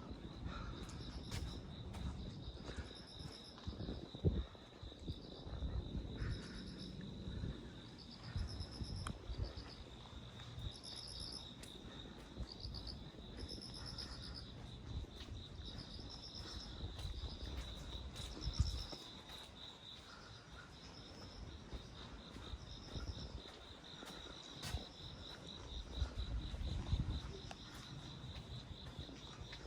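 Crickets calling: one trills steadily while another chirps in short repeated bursts about once a second. Irregular low thumps and rumble sound underneath.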